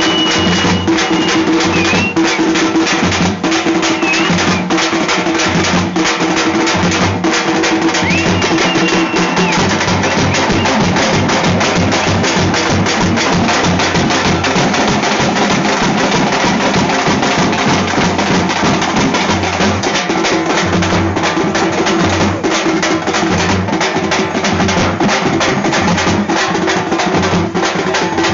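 A group of dappu frame drums beaten with sticks in a fast, driving daruvu rhythm, dense and steady throughout. A few short, shrill high tones sound over the drumming in the first ten seconds.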